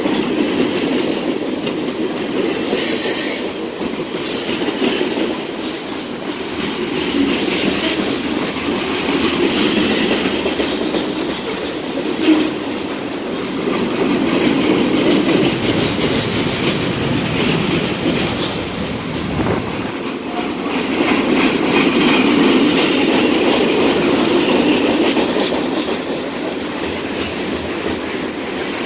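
Freight train cars rolling past: covered hoppers, gondolas, bulkhead flatcars and tank cars rumbling steadily on the rails, with the wheels clicking over rail joints. One sharper knock about twelve seconds in.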